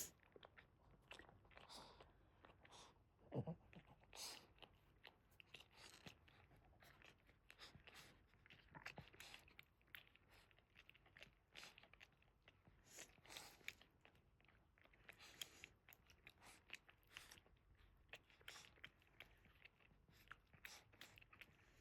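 Faint, irregular wet licking and mouthing sounds of a Boston terrier mother cleaning her newborn puppies.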